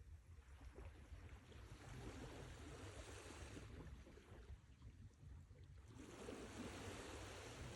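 Faint sea waves washing in and drawing back, the surf's hiss swelling and fading in slow surges over a low rumble: it dies down about four seconds in and builds again about six seconds in.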